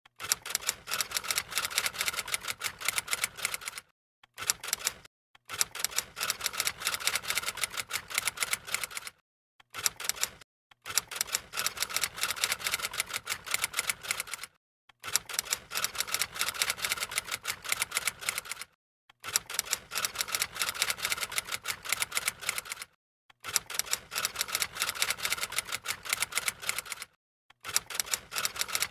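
Rapid typing clicks in runs of a few seconds each, broken by short, abrupt silences.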